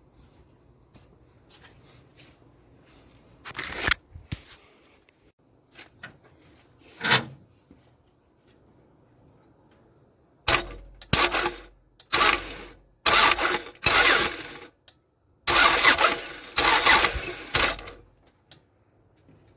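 The four-cylinder engine of a 1998 Toyota Camry that will not start, cranked on the starter in about eight short bursts of half a second to a second each, starting about ten seconds in, without catching. Before that, only a faint hum and a few light knocks.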